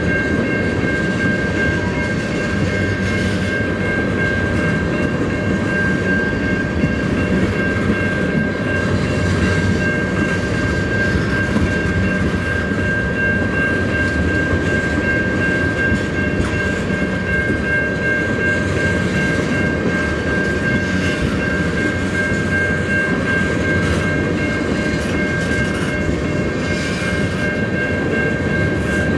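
Freight train of tank cars rolling steadily past: a continuous rumble of steel wheels on the rails, with a steady high ringing tone held over it.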